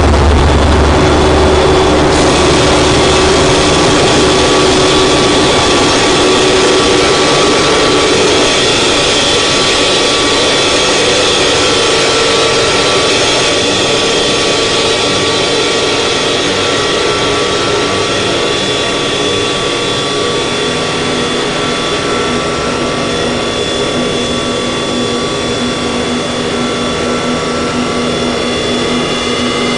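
Harsh noise drone music: a loud, unbroken wall of distorted noise with several held tones and no beat. A deep rumble underneath drops away about a second in.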